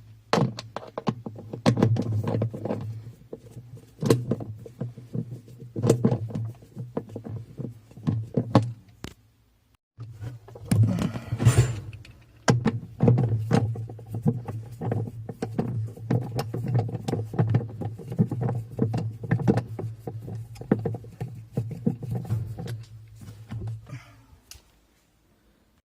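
Tools and parts clicking and knocking as the inside of a top-loading washing machine is taken apart, over a steady low hum, with a brief louder scraping noise partway through.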